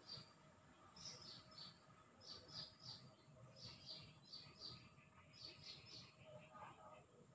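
Faint bird chirping: short runs of three or four high chirps, repeating every second or so.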